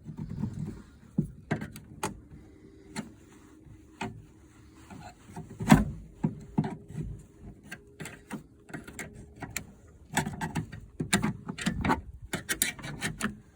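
Scattered clicks, scrapes and small knocks of a small tool prying at the retaining clip behind a manual window crank handle on a truck door, with one louder knock near the middle and quicker clicking near the end.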